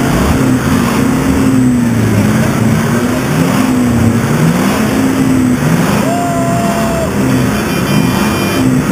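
Several off-road 4x4 engines being revved at once, their pitches rising and falling over one another. About six seconds in, a car horn sounds for about a second.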